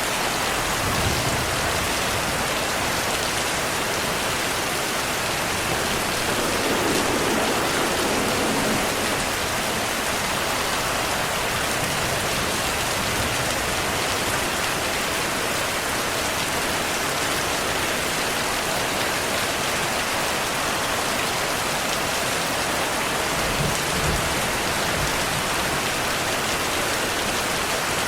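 Steady heavy rain falling, an even dense hiss, with a couple of brief low rumbles, one about a quarter of the way in and one near the end.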